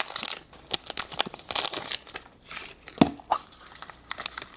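Plastic or foil wrapping being crinkled and torn open by hand, an irregular run of rustles and small crackles with a sharper snap about three seconds in.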